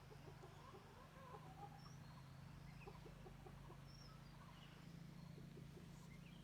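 Faint rural background of scattered short bird chirps and calls over a low steady hum, at near-silent level.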